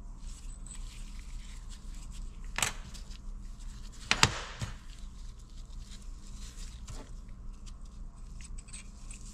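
Light clicks and knocks of small governor parts being handled during disassembly, the loudest a close pair of clicks about four seconds in, over a steady low hum.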